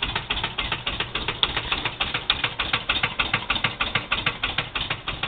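Engine running with an even, rapid clatter of about eight beats a second.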